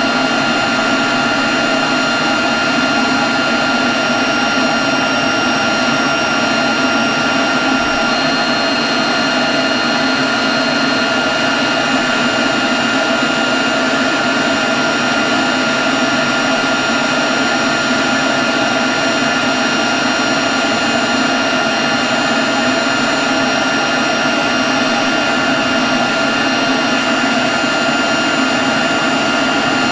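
Leaf blower running steadily at constant speed: a high, even whine over a rush of air, with no change in pitch.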